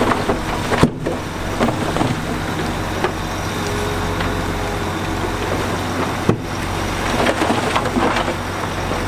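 Heavy diesel earthmoving machinery running steadily, with scattered crackling of dirt and stone being pushed or tipped. The sound breaks off for an instant twice, about a second in and again after six seconds.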